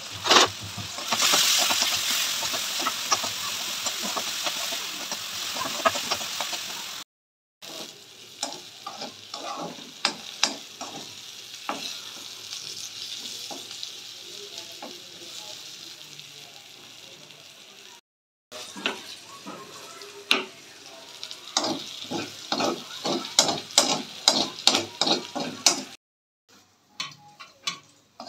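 Onions and green chillies sizzling in hot oil in a kadai, with a steel spoon scraping and clicking against the pan as they are stirred. The sizzle is loudest in the first several seconds. The sound is broken by three brief dead silences, and near the end there are lighter separate clicks.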